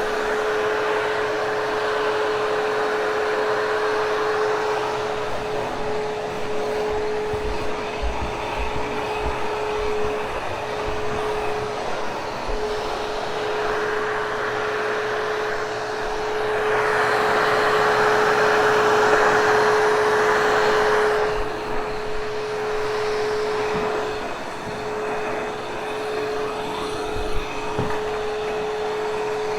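Hoover Hushtone vacuum cleaner running steadily on carpeted stairs, with a constant whine and a louder rush of air for about four seconds in the middle.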